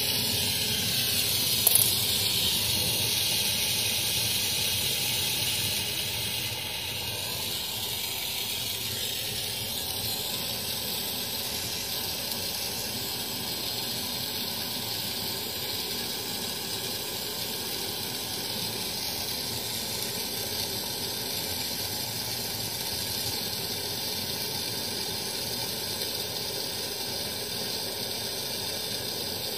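Steady hiss of escaping gas, with a short sharp click about two seconds in; the hiss drops a little in level about six seconds in.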